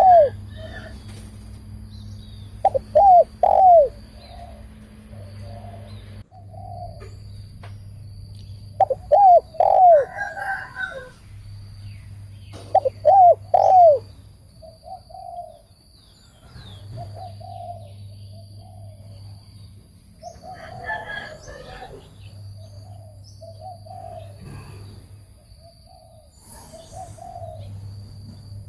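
Spotted dove cooing: loud, repeated arching coo phrases every few seconds in the first half, then softer, lower coos through the second half, over a faint low hum.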